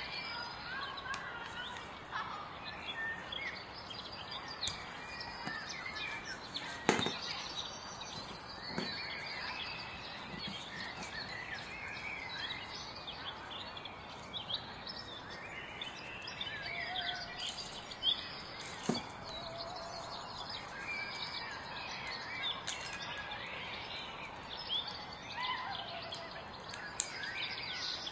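Small birds chirping, many short calls over a steady background hiss, with a few short knocks, the loudest about a quarter of the way in.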